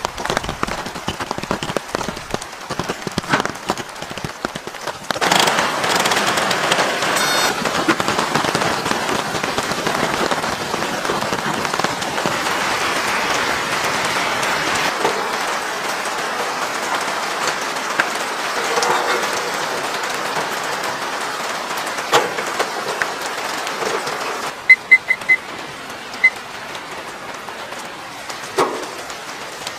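Steady rain with crackling at first, growing into a dense hiss about five seconds in that drops off suddenly near the end. After the drop a digital kitchen timer beeps several short times as it is being set.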